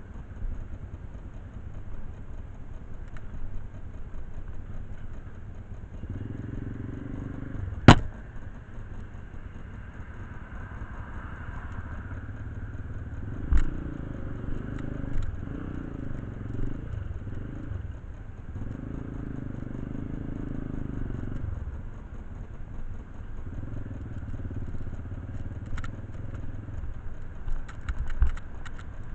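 An engine running, its low sound swelling and easing in stretches of a few seconds. A sharp metallic knock comes about eight seconds in, with a few lighter clicks later.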